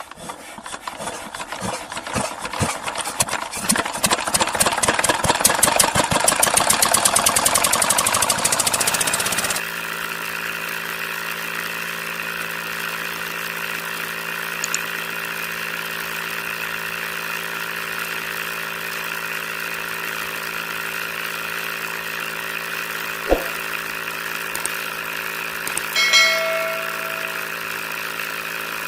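Small homemade model engine running, with rapid knocks that speed up over the first several seconds. It then changes abruptly to a steady hum of several tones, with a single sharp click and a short chirp late on.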